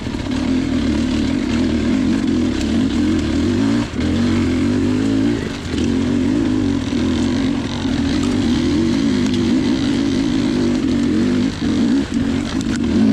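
Off-road motorcycle engine running under changing throttle, its note wavering, with a few brief drops where the throttle is rolled off.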